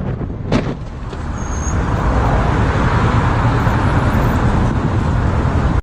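Road vehicle noise, with one brief sharp knock about half a second in. The noise swells louder from about two seconds in and cuts off suddenly at the end.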